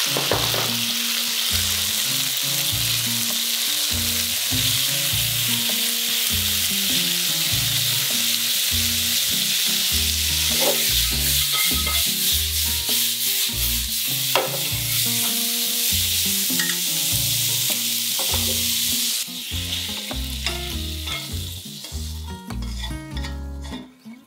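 Pork slices and onion sizzling in hot oil in a wok, with a spatula stirring and clicking against the pan. The sizzling falls away about 19 seconds in.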